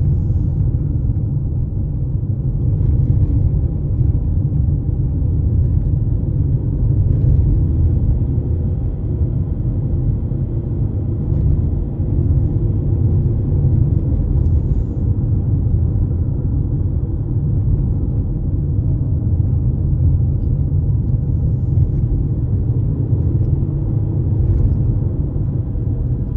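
Car driving at steady speed: an even, low rumble of road and engine noise that never lets up.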